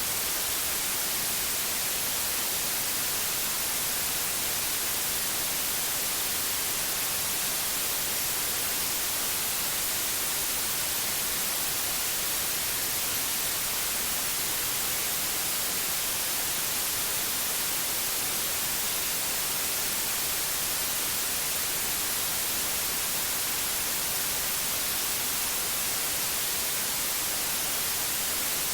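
Steady synthetic white noise: an even hiss, strongest in the high frequencies, with no changes.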